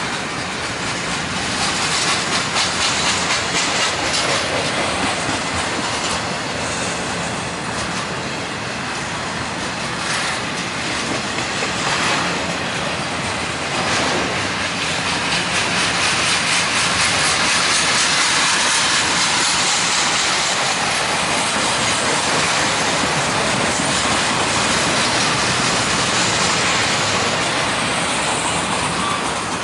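Freight cars of a mixed auto-rack and double-stack train rolling past on steel wheels: a steady rush of wheels on rail, with the clickety-clack of wheel trucks clicking over the rail.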